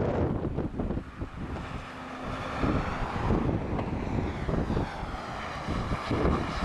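Jet engines of a Lufthansa airliner on final approach, a whooshing tone whose pitch sweeps as the aircraft passes, over strong wind buffeting the microphone.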